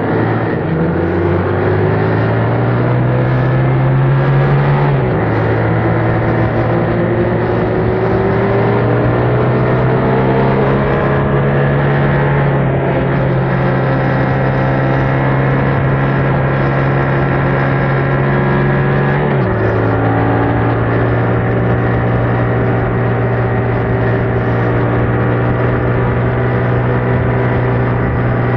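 Yamaha MT-07's 689 cc parallel-twin engine running through its stock exhaust under way, pulling up through the revs. The pitch drops at a gear change about five seconds in and again near twenty seconds in, and after that it holds a steady cruise.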